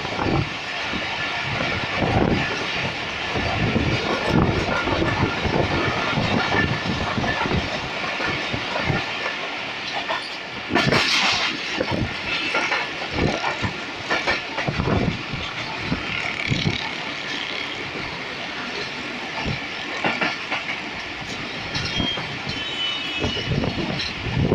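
Moving passenger train heard from inside a coach at an open window: the wheels clatter irregularly over the rail joints above a steady running roar, with one brief, louder rush of noise a little before halfway.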